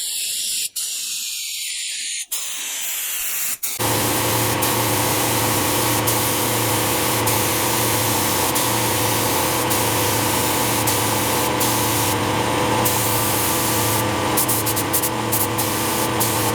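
Paint spray gun hissing as automotive paint is sprayed onto the car's bodywork, briefly cutting out a few times in the first seconds. From about four seconds in the hiss gets louder and fuller, with a steady low mechanical hum under it.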